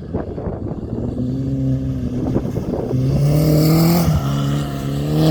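Off-road motorcycle engine accelerating under throttle: its pitch climbs, drops sharply about four seconds in, then climbs again.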